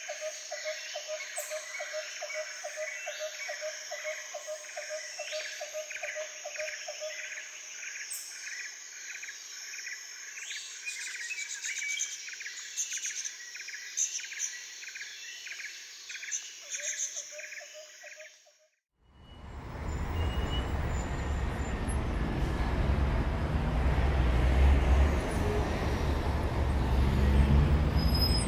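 Rhythmic high chirping, about four pulses a second, with higher calls every second or two; it cuts off abruptly about two-thirds of the way through. Then louder wind noise rumbles on the microphone.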